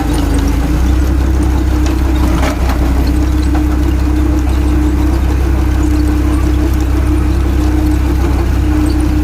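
Tractor engine running steadily, a deep low rumble with a constant hum above it, dipping briefly about two and a half seconds in.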